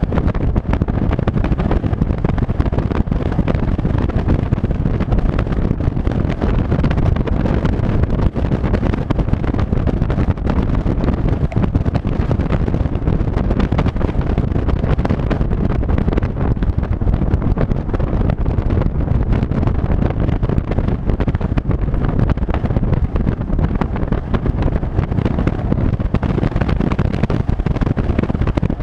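Steady, loud sound of a vehicle on the move, with heavy wind buffeting the microphone over engine and road noise.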